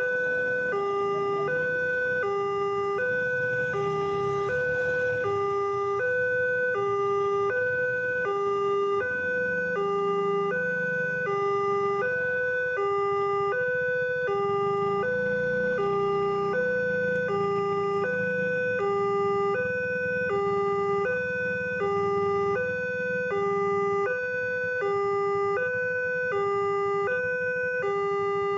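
Railway level crossing warning alarm: an electronic two-tone signal alternating steadily between a higher and a lower note, about one high-low cycle a second. A low rumble runs underneath.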